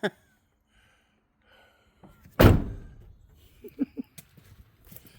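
A truck door slamming shut once, about two and a half seconds in, with a short ringing decay.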